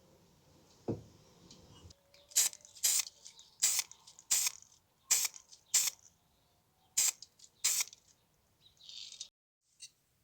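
A single low thump about a second in, then about eight short hissing spray bursts, roughly one every two-thirds of a second.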